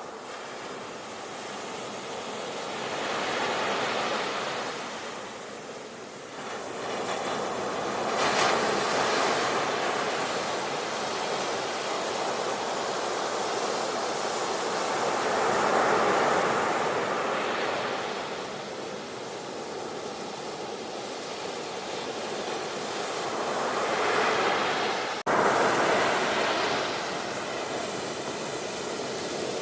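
Sea waves breaking on a shore, the surf swelling and falling away every several seconds, with an abrupt cut and jump in level about 25 seconds in.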